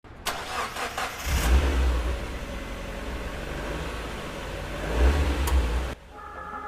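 Car engine revving: a few sharp clicks, then a deep engine rumble that surges twice and cuts off suddenly about six seconds in. Music with long held tones starts right after.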